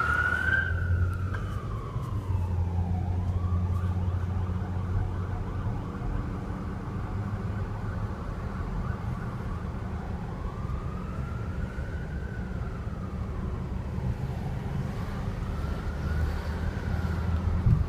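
Emergency vehicle siren on a slow wail, its pitch rising and falling over several seconds at a time, over a steady low rumble.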